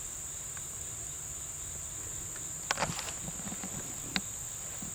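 Steady, high-pitched chorus of insects buzzing without a break, with a couple of brief clicks about three and four seconds in.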